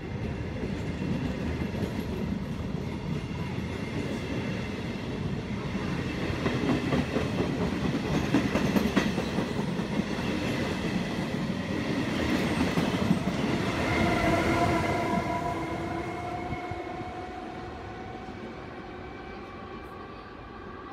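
A train passing, its wheels rumbling on the rails and loudest around the middle. From about two-thirds of the way in, a steady whine of several pitches falls slightly as the train draws away and the sound fades.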